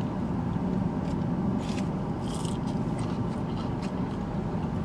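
Crunching bites and chewing of a fried Nashville hot chicken tender, a few short crunches over a steady low hum inside the car cabin.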